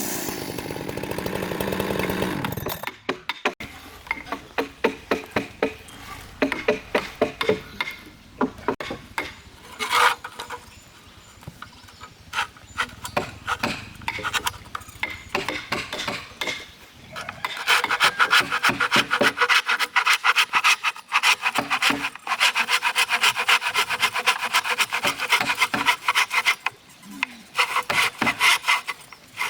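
A power tool runs and stops about two and a half seconds in. Then wood is sawn by hand in repeated back-and-forth strokes, which turn faster and louder from about seventeen seconds in.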